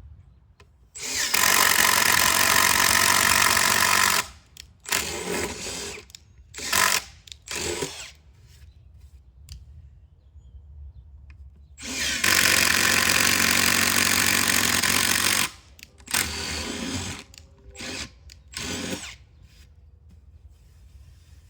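Handheld power tool running in bursts: two long runs of about three seconds each, each followed by a few short bursts.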